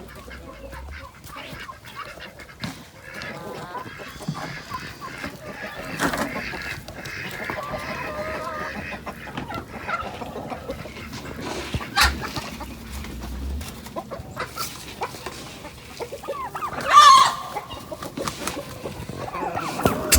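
Chickens clucking in their pens, with one loud call about three-quarters of the way through and a couple of sharp knocks.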